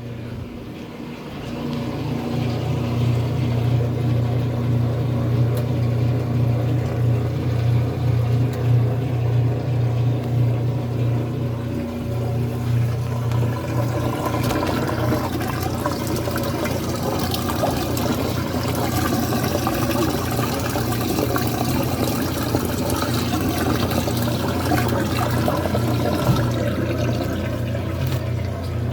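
Washing machine running: a steady motor hum with water churning and sloshing in the tub, the water growing busier about halfway through.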